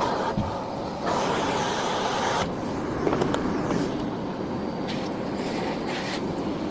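Miele Blizzard CX1 bagless cylinder vacuum cleaner running steadily. The hiss of the suction grows louder and brighter about a second in and dulls again a little past halfway through.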